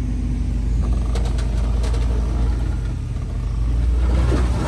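Jeep Wrangler engine running at low speed in low gear under load, towing a high-centered Jeep backward off a rock with a recovery strap. A few sharp clicks come a little over a second in, and the engine grows louder about four seconds in.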